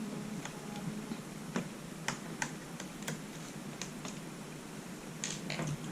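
Scattered light clicks and ticks of a small screwdriver and screws against a laptop's plastic bottom case as the last case screws are taken out.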